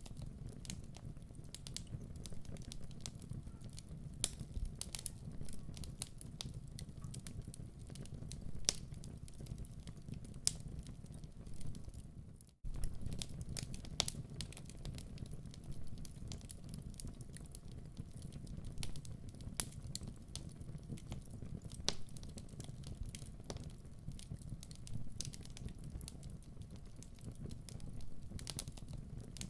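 Wood fire crackling, with irregular sharp pops over a steady low rumble. The sound drops out for a split second about twelve and a half seconds in, then carries on.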